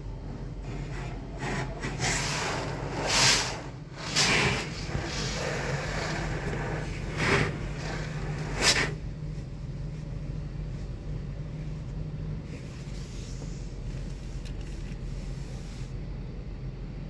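Car-wash pressure washer with its motor humming steadily and several hissing bursts of spray in the first half, loudest about four times, then only the motor hum.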